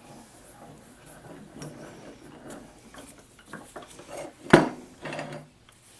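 Metal parts of a bench vise being handled during disassembly: small clinks and rattles, then one loud metal knock about four and a half seconds in, followed by a brief clatter.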